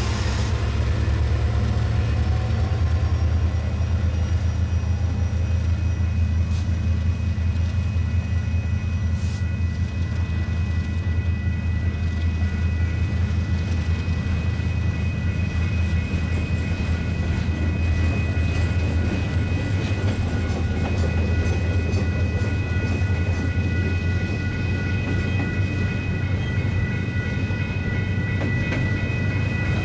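Union Pacific double-stack intermodal freight train rolling past: the deep steady rumble of its mid-train diesel locomotives going by, then the wheels of the stack cars running over the rails. A thin, steady high ring comes in about halfway through.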